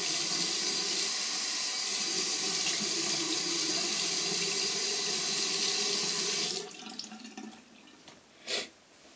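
Sink tap running steadily, as water to wet the face before shaving, then shut off about two-thirds of the way through. A brief soft noise follows near the end.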